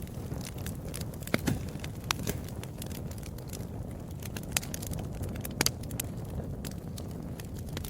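Wood fire burning with a steady low rumble and irregular crackles and pops, two sharper pops about a second and a half in and near the middle.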